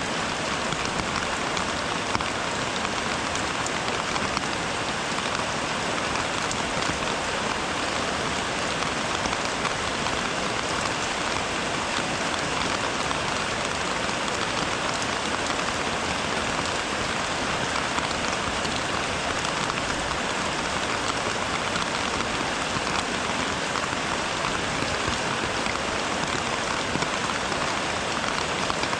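Steady rain falling, an even patter of many drops that holds the same level throughout.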